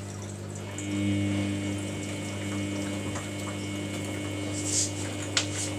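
Samsung washing machine running with water flowing: a steady low hum, joined about half a second in by a pump-like whine. A few short clicks near the end.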